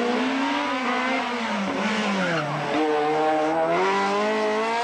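Simca Rallye II slalom car's rear-mounted four-cylinder engine revving hard under full throttle. The pitch rises and falls with the throttle, drops low about two and a half seconds in, then climbs steadily again.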